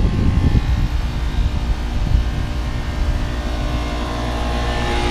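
Large commercial air-conditioning unit running loud: a steady mechanical hum and low rumble with a drone of steady tones from its fans and compressor.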